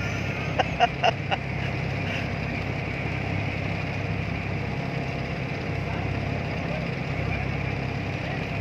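Boat engine running steadily at an even, low hum.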